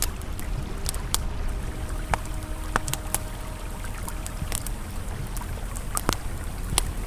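Campfire crackling with irregular sharp pops over the steady rush of a flowing river, with a soft held ambient tone in the background.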